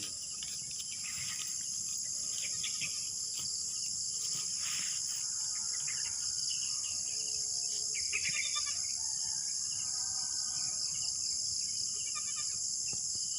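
Steady high-pitched chorus of insects in grassland, with scattered faint bird chirps.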